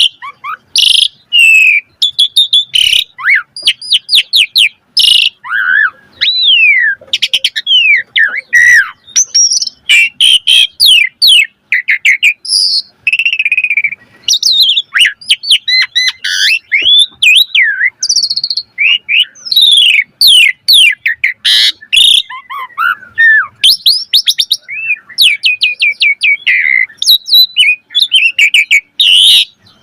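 Asian pied starling (jalak suren) singing a long, busy, varied song: quick whistles, chirps, rattling trills and sliding notes following one another with only brief pauses.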